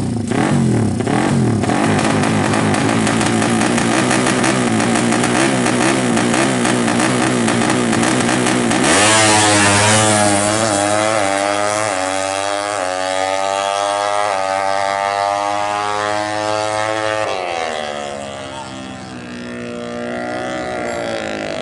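Suzuki FU motorcycle engine bored to 200 cc with a twin exhaust, running at a fast steady speed and then blipped through several rising-and-falling revs about halfway through, before dropping back toward idle near the end.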